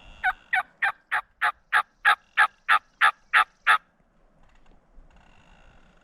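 A run of about a dozen loud turkey hen yelps, about three a second, swelling and then stopping about four seconds in. The yelps come from a hunter's turkey call used to draw a Merriam's gobbler.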